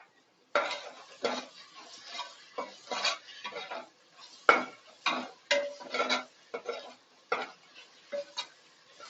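A cooking utensil scraping and knocking irregularly against a pan while onions and ginger-garlic paste are stirred. The loudest knock comes about halfway through.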